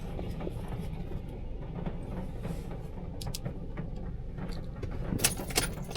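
Steady low vehicle rumble. Keys jangle in sharp clicks near the end.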